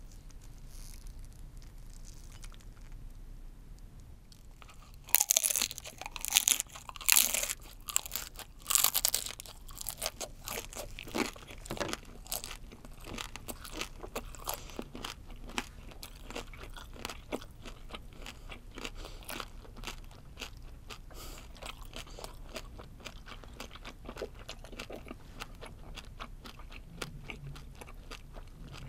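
Close-miked biting and chewing of a shell-on, butter-grilled chicken shrimp (Japanese spiny lobster). A few loud crunchy bites come about five seconds in, followed by steady crackly chewing.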